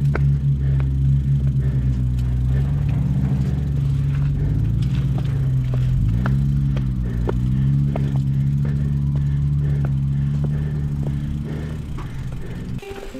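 Motor vehicle engine running under way, its pitch rising and falling several times as it speeds up and eases off, with scattered clicks and rattles. It cuts off abruptly near the end.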